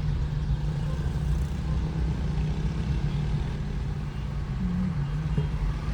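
Car engine and road noise heard from inside the cabin of a moving car: a steady low drone, its engine tone lifting briefly about four and a half seconds in.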